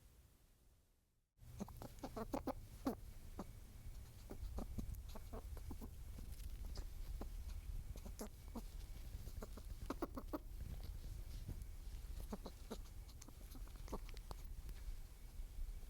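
Outdoor nature ambience: a steady low rumble of wind with scattered short clicks and brief animal or bird calls, starting after a fade to silence about a second in.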